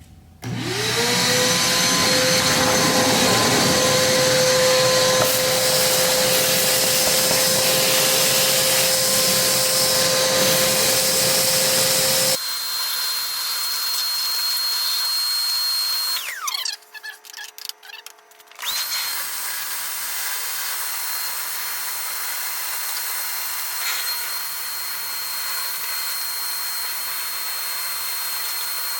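Vacuum cleaner motor starting up with a rising whine and running steadily while cleaning out planter seed boxes and hoses. Its sound turns thinner and quieter partway through. It winds down briefly with a falling whine, then starts up again and keeps running.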